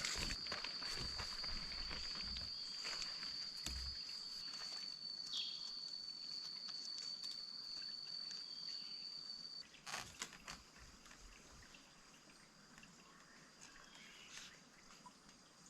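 An insect's steady high-pitched call, which drops suddenly to a faint trace about ten seconds in. Scattered rustling and clicks of handling, with one sharp click around the same moment.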